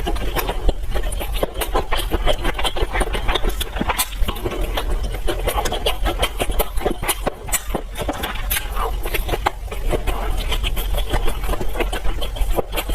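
Close-miked eating sounds: wet chewing, smacking and slurping, a dense, irregular run of small clicks.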